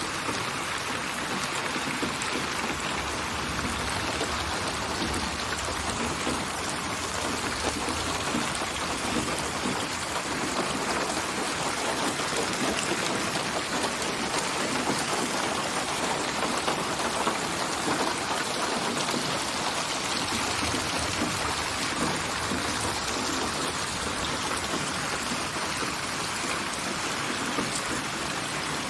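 Steady rain: a dense, even patter of many drops. It is a synthesised rain ambience built from recorded rain samples and spatialised binaurally ('8D'), so the drops seem placed around the listener's head.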